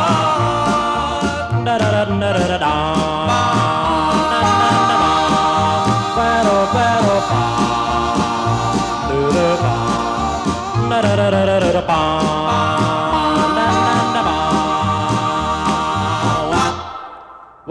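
Doo-wop vocal group singing wordless backing harmonies over a bass line and drums, in a late-1950s rock-and-roll recording. Near the end the music drops away sharply.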